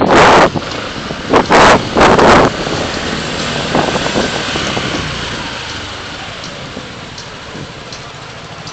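Steady traffic and road noise with four short, very loud hissing bursts in the first two and a half seconds, after which the noise slowly fades.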